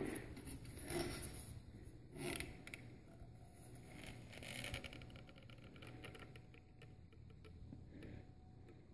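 Faint pouring of liquid wood flour cement filler into a pail, with a few soft knocks and scrapes from handling the containers.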